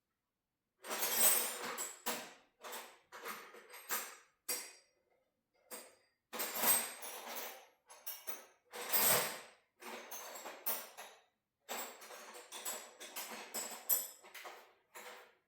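Metal clinking and rattling in irregular short bursts with silent gaps between: tools and hardware being handled.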